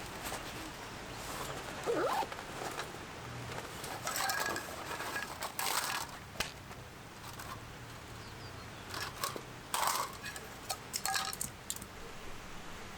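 Irregular light clicks, clinks and scrapes, about a dozen spread through, like small objects being handled, with a short falling sound about two seconds in.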